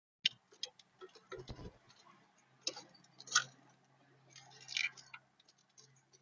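Irregular sharp taps, clicks and scratches of a visitor feeding on the bird feeder, picked up close by the feeder camera's own microphone, over a faint steady low hum.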